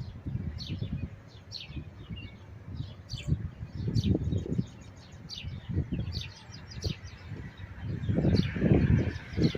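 Small birds chirping over and over while gusts of wind buffet the microphone in low rumbling blasts, the strongest near the end, as a storm cell moves in.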